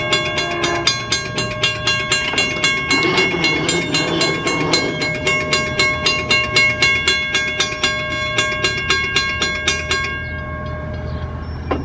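Railroad grade-crossing bell ringing rapidly, about four strikes a second, over the low rumble of an approaching train. The bell stops about ten seconds in.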